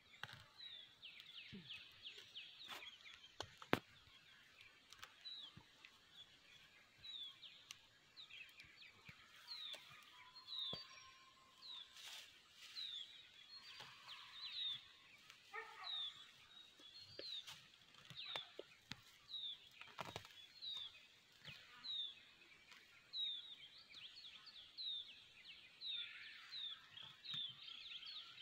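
Birds chirping: a short falling chirp repeated about once a second over a faint twittering. A single sharp click about four seconds in.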